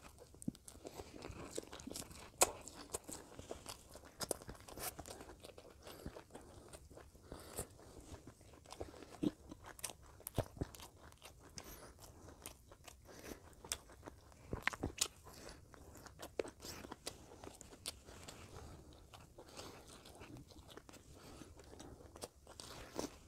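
Close-miked chewing and mouth sounds of eating lamb curry and basmati rice by hand, with many short crisp clicks and crunches scattered throughout.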